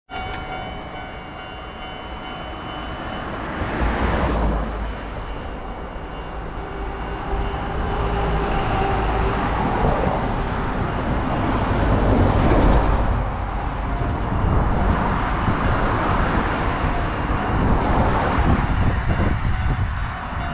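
Japanese level-crossing bell ringing while a Kobe Electric Railway 6500-series train runs through the crossing. The train's loud rumble of wheels on rail swells and fades several times and covers the bell, whose ringing tones stand out again near the start and near the end.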